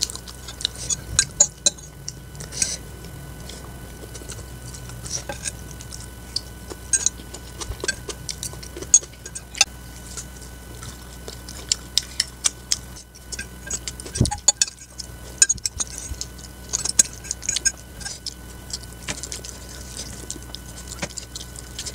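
Close-miked eating of fried instant noodles (Indomie goreng): chewing with many short, sharp mouth clicks and smacks, scattered irregularly.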